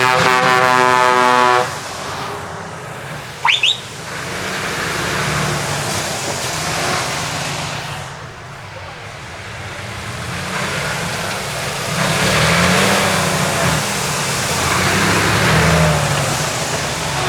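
A truck air horn blasts for about a second and a half. A short, high, rising whistle follows. Then heavy truck engines run past, their rumble swelling twice.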